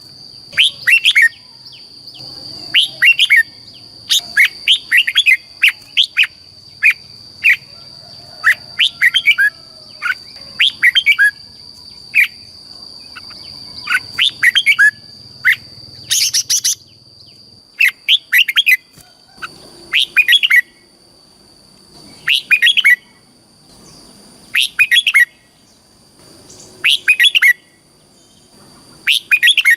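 Red-whiskered bulbul singing: short, loud phrases of quick chirped notes, repeated every second or two, over a steady high-pitched whine.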